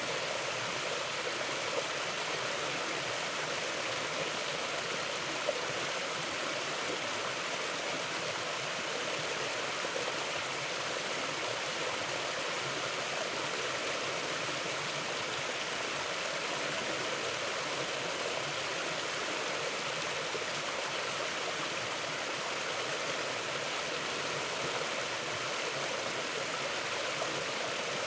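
Mountain stream flowing steadily: an even, unbroken rush of water.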